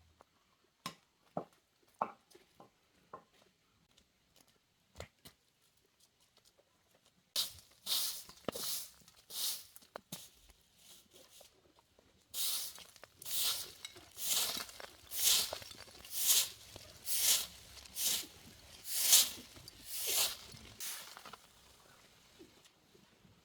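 Scattered light clicks and knocks, then a long run of regular swishing scraping strokes, about one every three-quarters of a second, which stop shortly before the end.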